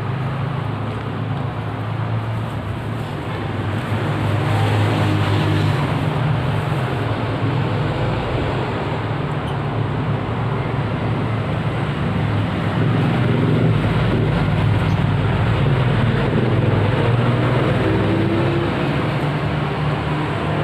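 Steady low engine rumble with a noisy hiss over it, like road traffic, getting a little louder about four seconds in.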